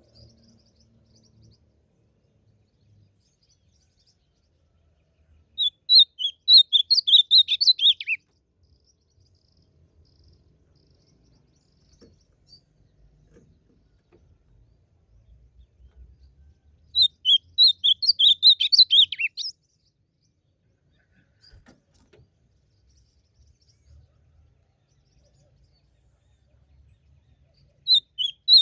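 Ultramarine grosbeak (azulão) singing: three short, rapid warbling song phrases, each about two and a half seconds long and ending on a falling note, spaced about eleven seconds apart.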